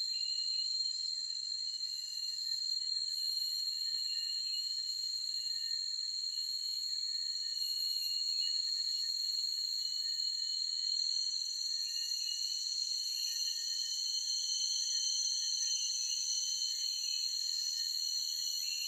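Forest insects shrilling steadily at several high pitches without pause, with fainter wavering calls lower down.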